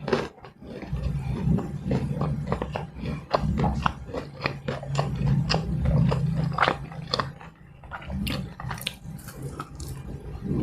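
Close-miked chewing and biting of fried snacks with sambal: a dense run of short crunchy clicks and wet mouth sounds that thins out for a moment near the end.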